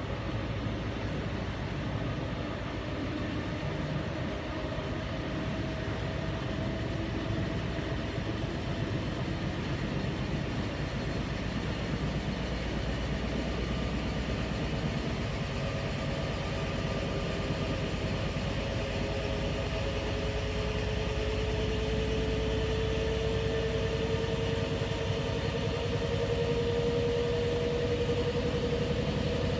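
Washing machine running with a steady rumble and hum, and a motor whine that slowly rises in pitch over the second half.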